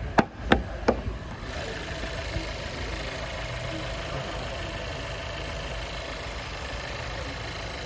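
Three sharp knocks in the first second. Then the 1.4-litre turbocharged four-cylinder engine of a 2017 Volkswagen Jetta idles steadily.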